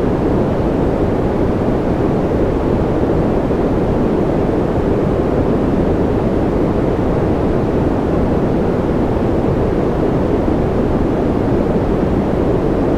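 Steady generated white noise from a sleep track: an even, unbroken rushing that is heaviest in the low and middle range and has little high hiss.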